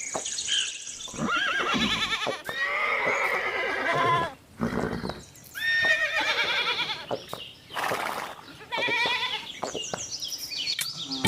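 Horses neighing: several whinnies one after another, each with a shaking, wavering pitch.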